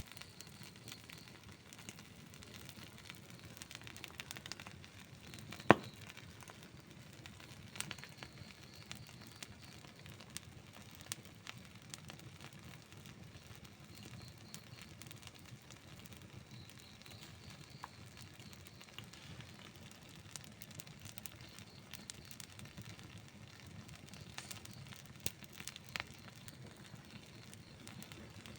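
Outdoor wood campfire burning, with a steady low rush and many small crackles and pops throughout; one loud, sharp pop about six seconds in.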